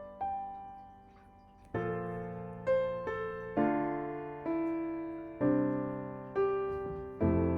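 Background piano music, slow single notes and chords that each ring and fade, with lower chords coming in about two seconds in.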